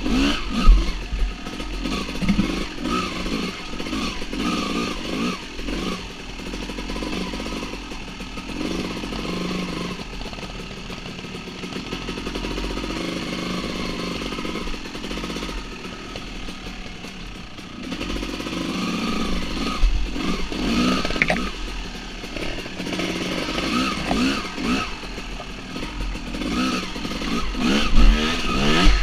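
Dirt bike engines revving up and down in repeated bursts as the bikes are ridden through a rocky creek, with a steadier, quieter stretch in the middle.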